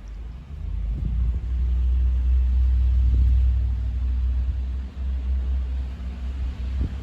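Snowstorm wind gusting against the microphone: a deep rumble that swells over the first couple of seconds, dips briefly near the end and carries on.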